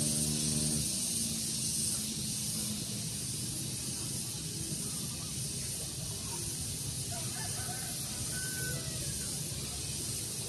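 Outdoor daytime ambience: a steady high hiss, with a few faint short bird chirps a little past the middle. A low hum of steady pitch dies away in the first second or two.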